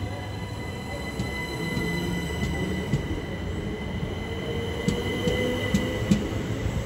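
Third-rail electric multiple-unit train running at the platform, with a steady high wheel squeal and scattered clicks of wheels over rail joints. In the second half a motor whine rises in pitch as the train picks up speed.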